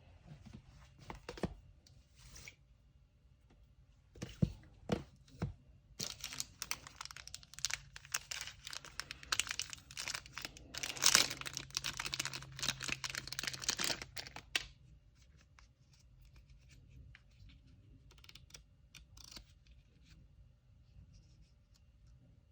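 Packing materials being handled: a few light knocks and clicks, then about eight seconds of continuous tearing and crinkling of paper, then quieter handling sounds.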